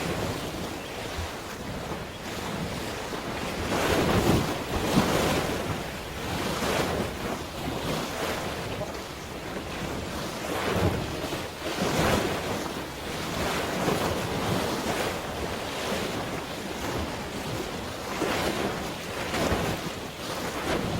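Waves washing and surging irregularly, with wind buffeting the microphone.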